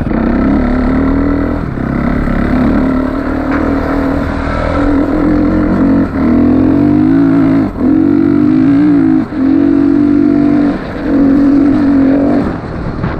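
Motorcycle engine running under throttle while being ridden, its pitch rising and falling, with several brief drops in power, as when the throttle is rolled off or a gear is changed.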